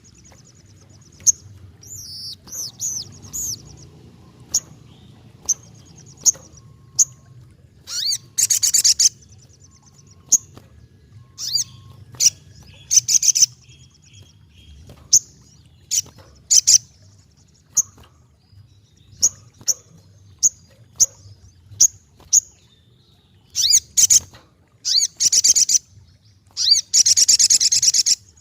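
Crimson sunbird (sogok ontong) calling: high-pitched sharp chips about once a second, broken by several dense, rapid twittering bursts of about a second each.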